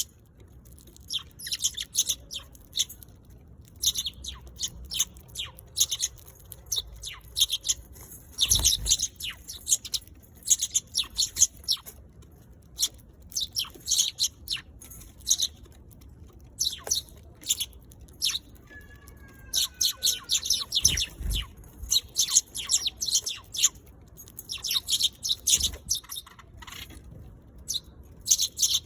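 Eurasian tree sparrows chirping in repeated bursts of quick, high chirps every second or two.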